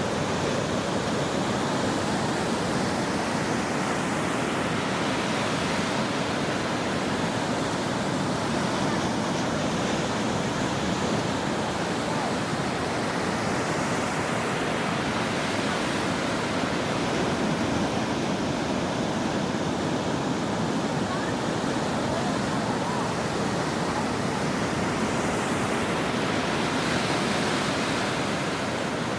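Ocean waves breaking on a shore: a continuous wash of surf, with a wave surging up a little brighter about every ten seconds.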